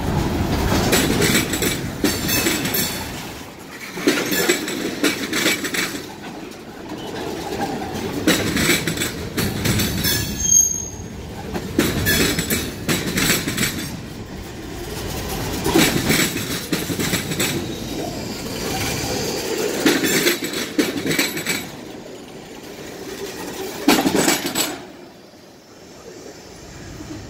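Railroad cars rolling past, their wheels clacking over rail joints in a repeating, uneven rhythm, with a brief high wheel squeal about ten seconds in. The sound drops away sharply near the end.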